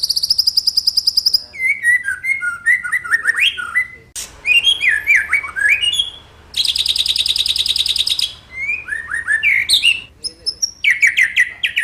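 Songbird singing a loud, varied song: fast buzzy trills lasting a second or two, twice, alternating with runs of clear whistled notes that slide up and down.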